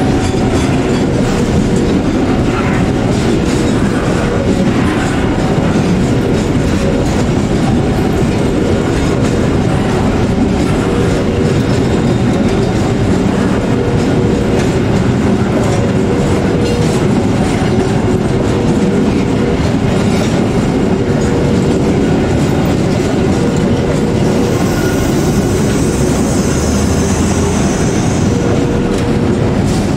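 Freight train of container flat wagons rolling slowly past at close range while shunting, its wheels clattering steadily over the rail joints. A short ringing tone comes back about every two seconds, and a high hiss joins briefly near the end.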